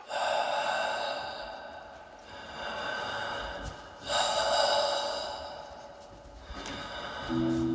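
Heavy, slow breathing: three long breaths, each swelling and fading over a second or two. Low music tones come in near the end.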